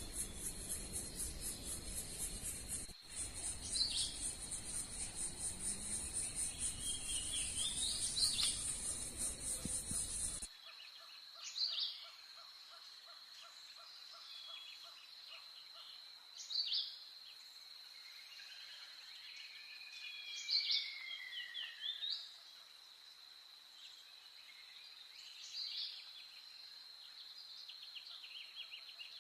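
Insects trilling in a fast, pulsing high buzz over a steady high whine. About ten seconds in, the buzz and the background rumble cut off abruptly. What remains is the steady insect tone with short, sharp bird calls every few seconds and one longer falling whistle.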